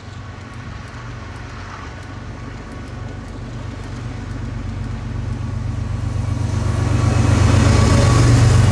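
Diesel locomotives of an approaching freight train, their engines running with a low hum that grows steadily louder as the train nears.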